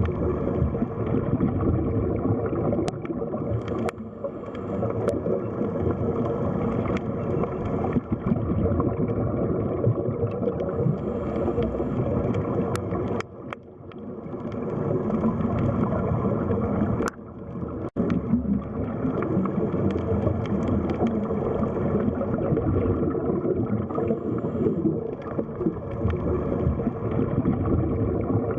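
Underwater sea ambience: water churning and gurgling steadily, muffled, with a few faint clicks. It dips briefly about halfway through and cuts out for an instant a few seconds later.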